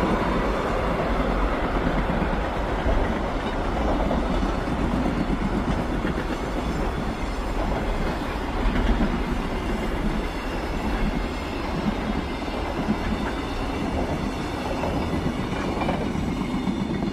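Freight train of container wagons rolling past: a steady rumble of steel wheels on rail, with occasional clacks.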